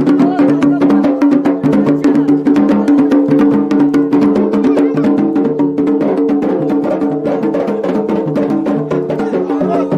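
Traditional Yemeni wedding drumming on tabl and mirfa' drums: fast, dense strokes in a driving rhythm, over a steady held pitched tone.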